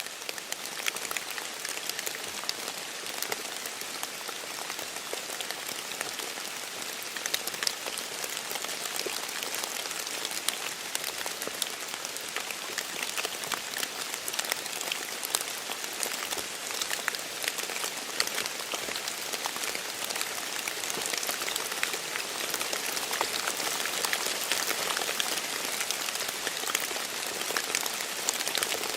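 Steady light rain with many individual drops pattering and dripping into puddles and off leaves.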